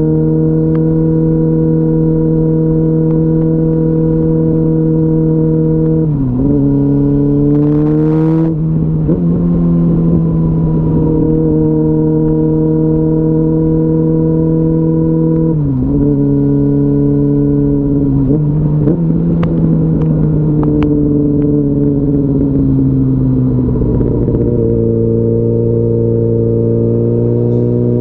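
2004 Yamaha R6's 600 cc inline-four engine running at highway speed, its note mostly steady. The pitch dips briefly about six seconds in and again around sixteen seconds, climbs quickly around eight seconds, and sags then recovers near the end.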